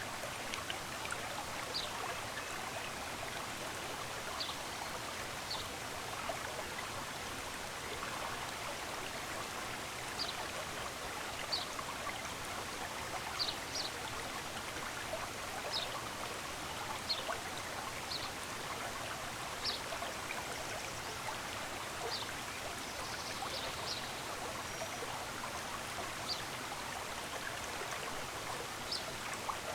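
Steady rush of a running stream, with short, high bird chirps every second or two.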